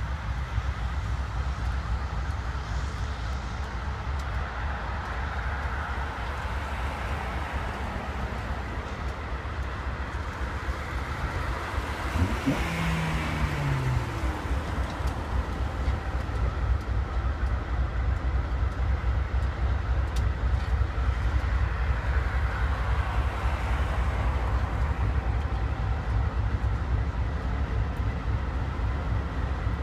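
Diesel-electric locomotives of an intermodal freight train running steadily past, then double-stack container cars rolling by, with road traffic mixed in. A short falling tone comes about twelve seconds in, and the rumble gets a little louder from then on.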